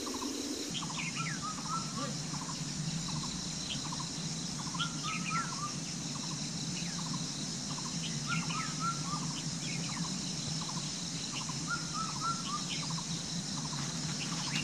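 A songbird sings the same short phrase about every three and a half seconds: a few quick falling whistles running into a short trill, with brief chirps in between. Underneath is a steady background hiss.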